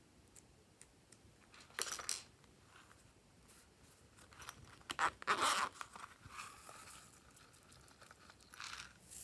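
Hands working slime, squishing and stretching it: sticky crackles and clicks in several short bursts, the loudest about five seconds in.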